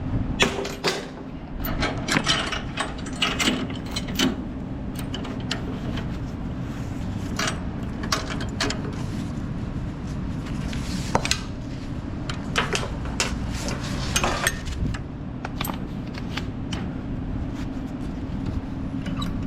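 Steel tie-down chain clinking and rattling in irregular clanks as the loose excess chain is wrapped up and secured with bungee cords, over a steady low hum.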